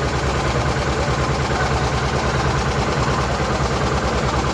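A steady, rapid low-pitched pulsing, like an engine running, with faint voices behind it.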